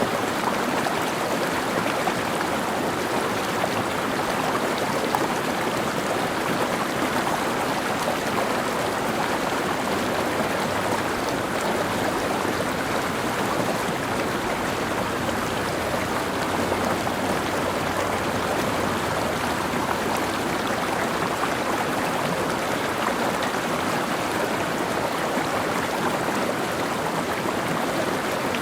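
Mountain stream flowing over rocks: a steady, even rush of water with fine splashing and gurgling texture.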